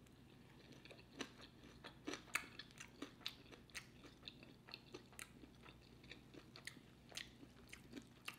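Close-miked chewing of a bitten bacon-wrapped stuffed jalapeno: soft, wet mouth clicks and smacks at an irregular pace of a few per second.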